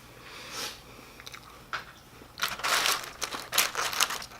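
Crunchy fried food being bitten and chewed close to the microphone: a soft sound early, then a run of crisp crunches in the second half.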